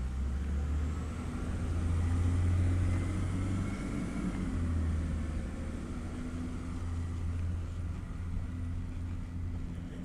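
Peterbilt 320 automated side-loader garbage truck's engine running steadily, swelling for a couple of seconds and easing off about four seconds in, with a faint high whine above it.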